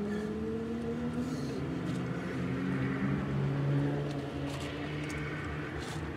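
Car engine idling, a steady low hum heard from inside the cabin, drifting slightly in pitch.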